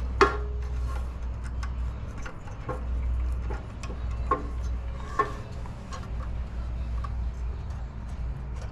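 Light clicks and taps of small engine parts being handled and fitted by hand, a sharp click about a quarter second in and scattered ones after, over a steady low hum.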